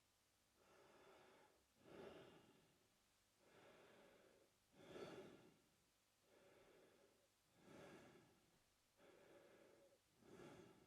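A man breathing slowly and evenly through his mouth, quietly: about four full breaths, each a longer, softer breath followed by a shorter, stronger one.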